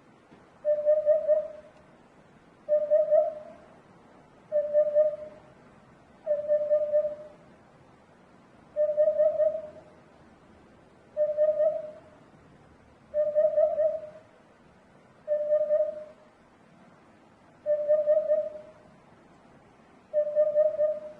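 Eurasian hoopoe calling: a low, soft 'oop-oop' hooting phrase under a second long, repeated steadily about every two seconds.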